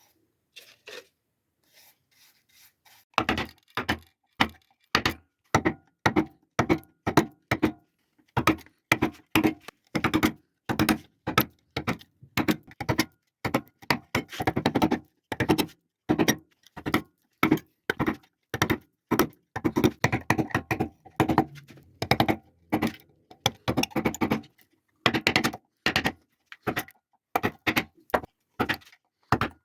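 Mallet striking a carving chisel or gouge into walnut wood, in a steady series of sharp knocks at about two a second. The knocks begin about three seconds in and run on with brief pauses.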